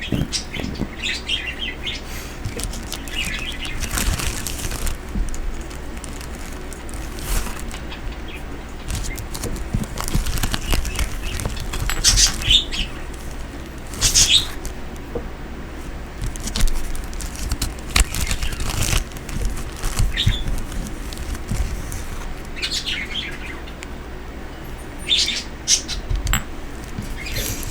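A pet bird chirping now and then in short calls, over scattered clicks and rustles from handling small objects.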